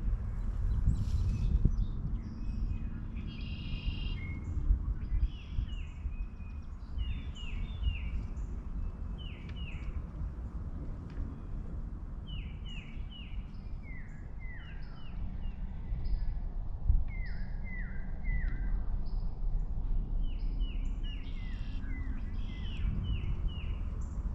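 Songbirds calling with short, quick down-slurred chirps, often in runs of two to four, over a steady low rumble.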